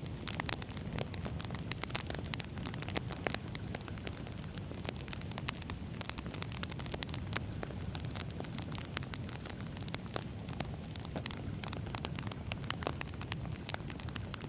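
Wood fire burning: a steady low rumble of flames with frequent irregular crackles and pops from the burning logs.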